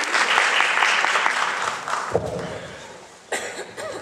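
Audience applause, dense at first, then thinning and dying away over about three seconds, with a low thud about two seconds in.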